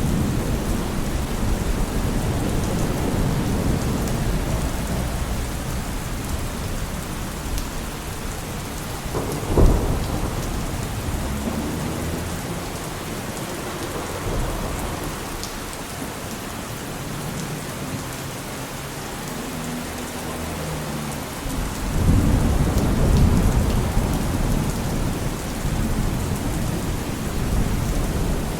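Steady rain falling on hard surfaces, with a deep rumble under it that fades through the middle and swells up again near the end. A single sharp thump stands out about ten seconds in.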